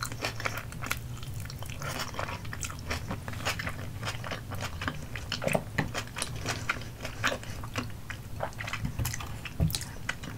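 Close-miked chewing of chewy rice cakes in a sticky, cheesy sauce: wet mouth clicks and smacks at an irregular pace.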